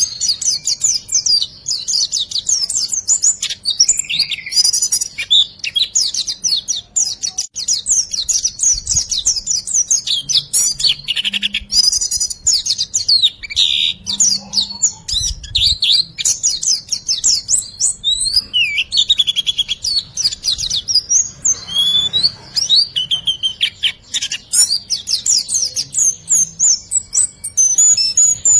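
Songbird singing a continuous, fast run of high-pitched chirps and trills, a 'riwikan'-style master song of the kind bird keepers play to tutor caged birds and set silent ones singing.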